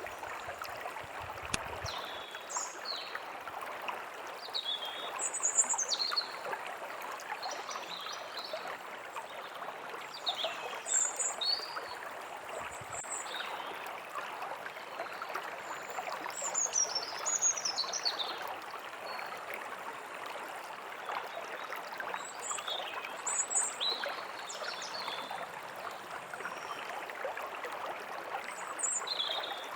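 Forest ambience: a small stream flowing steadily, with songbirds giving many short, high chirps and falling whistled calls throughout.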